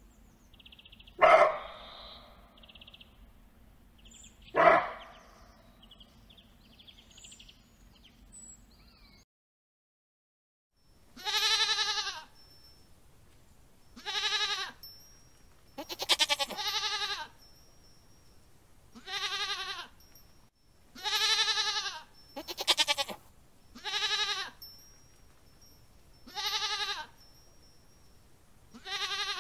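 Two short, sharp animal calls a few seconds apart, then a short silence. After it, a herd of horned sheep and goats bleats about ten times, one bleat every couple of seconds.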